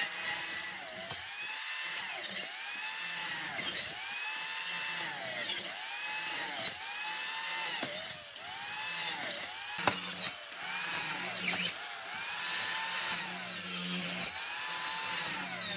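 Handheld electric power tool working wood in repeated passes; the motor's whine dips in pitch about once a second as each pass loads it, over the hiss of cutting.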